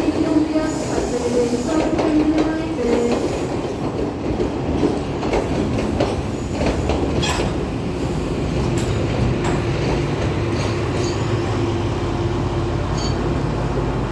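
A diesel train moving along the platform: wheels clicking over the rail joints with short squeals, then a steady engine drone from about halfway.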